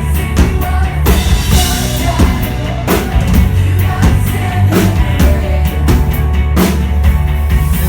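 Live rock-style song played loud at a concert: a steady drum-kit beat with heavy bass underneath and a cymbal wash about a second in.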